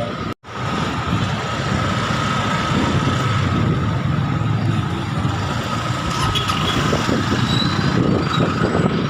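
Steady running noise of a road vehicle: engine and road rumble, strongest in the low end, with a faint steady whine above it. The sound drops out completely for a moment just under half a second in.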